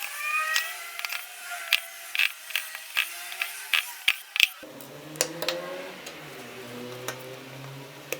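Sharp small clicks and snaps of tools and plastic parts while a Samsung Galaxy A13 smartphone is taken apart, coming quickly at first and then thinning out. A low steady hum starts about halfway through.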